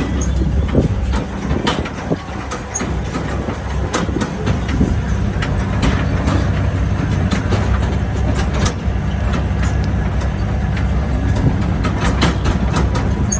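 Tractor engine running steadily under way, a loud low hum, with frequent short rattles and knocks from the ride.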